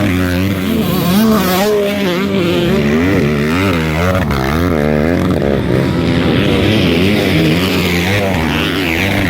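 Several motocross bike engines running at racing speed, revving up and down so that the pitch rises and falls over and over, with overlapping engines at different pitches.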